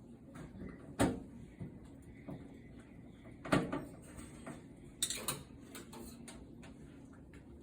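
Several sharp knocks and clatters, one about a second in, one at about three and a half seconds and a double one around five seconds, over a faint low hum.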